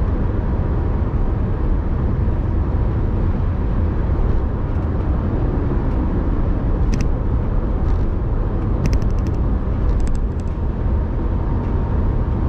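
Car driving along: a steady low road and engine rumble, with a few short clicks about halfway through and again a little later.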